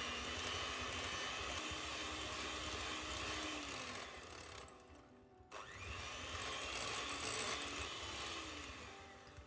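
A small electric motor runs in two bursts of about four seconds each, one before and one after a short drop about halfway through. Each burst spins up quickly at the start and winds down at the end.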